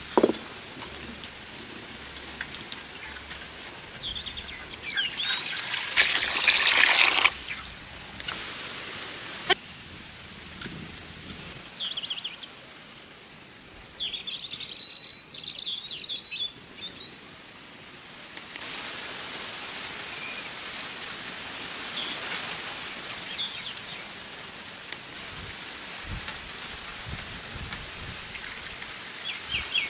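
Small birds chirping on and off. A loud rushing noise lasts about a second around six seconds in, and a steady hiss runs through the second half.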